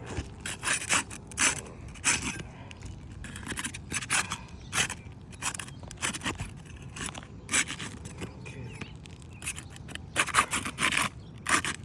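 Repeated gritty scraping on asphalt roof shingles, in irregular short strokes and clusters.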